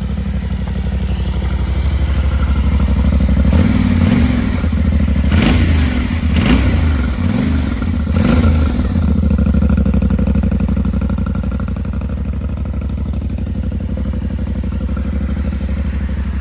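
2025 Yamaha Tenere 700's 689 cc parallel-twin engine idling, with several quick throttle blips between about four and nine seconds in, then settling back to a steady idle.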